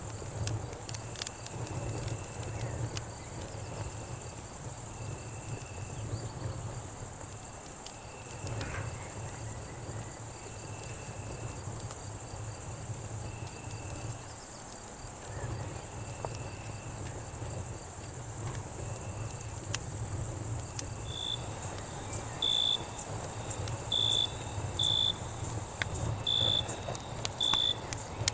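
Night insect chorus of crickets and cicadas: a steady high-pitched shrill with short chirps repeating about every second and a half. From about two-thirds of the way through, a louder, higher chirp repeats a little faster. Scattered campfire crackles and a low steady rumble sit underneath.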